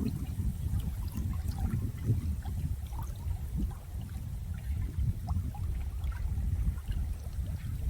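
Running water: a steady, uneven low wash with scattered faint small ticks above it.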